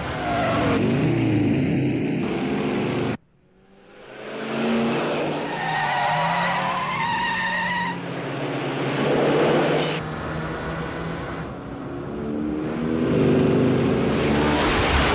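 Film chase soundtrack of car and motorcycle engines revving hard, rising and falling in pitch, with tyre squeals and skids. The sound cuts off sharply about three seconds in, then the engines build back up.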